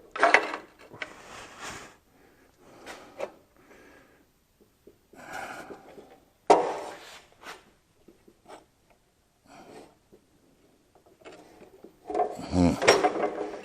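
Steel stock and tools being handled on a shop bench: scattered knocks, clunks and scrapes with quiet gaps between them, and a denser cluster of clatter near the end.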